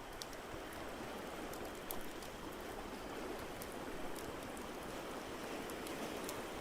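Crackling fireplace, with sharp pops scattered irregularly throughout, over a steady wash of ocean waves.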